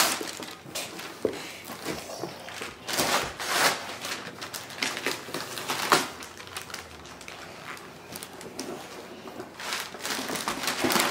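Wrapping paper being torn and crinkled as a gift is unwrapped, in irregular rustles and short rips.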